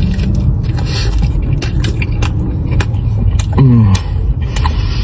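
A person eating a slider and mozzarella sticks: biting and chewing with many small sharp clicks, over a steady low rumble. About three and a half seconds in comes a short closed-mouth "mmm" falling in pitch.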